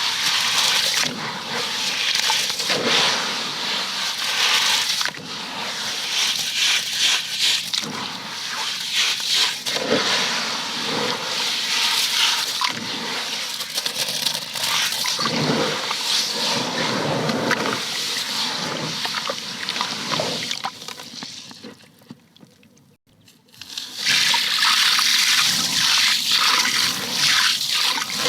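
Water rushing and splashing steadily. It breaks off for about a second near the end, then starts again.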